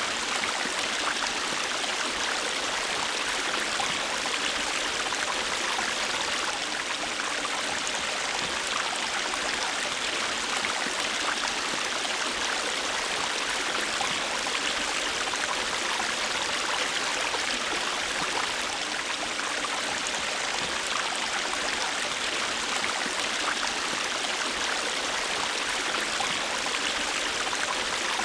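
A river or stream running steadily over rocks, a continuous even rush of flowing water.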